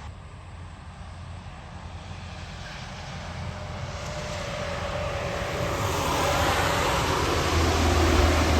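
A heavy truck approaching, its engine and tyre noise growing steadily louder, with a deep rumble in the last second.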